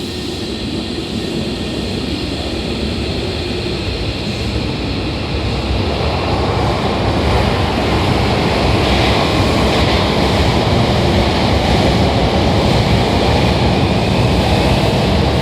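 Hankyu 7000 series electric train pulling out of the station, its rolling and running noise growing steadily louder as it gathers speed past the platform.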